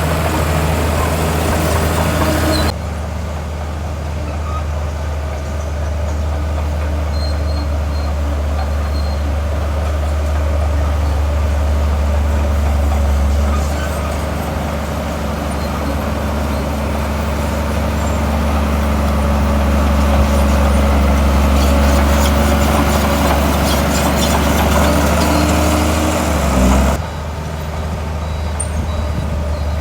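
Heavy diesel earthmoving machinery running: a loud, steady low engine drone with some rise and fall in level. The sound changes abruptly about three seconds in and again near the end.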